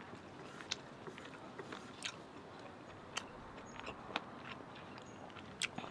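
A person chewing food close to the microphone, with short wet mouth clicks and smacks about once a second over a faint steady hiss.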